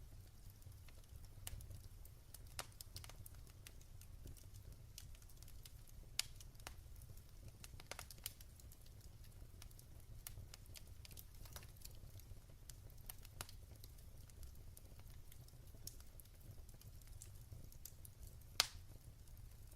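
Wood fire crackling in a fireplace: irregular small pops and ticks over a low steady rumble, with one sharper, louder pop near the end.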